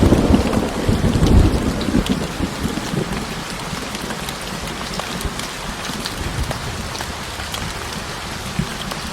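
Rain falling steadily with scattered drip ticks, and a low roll of thunder in the first two seconds.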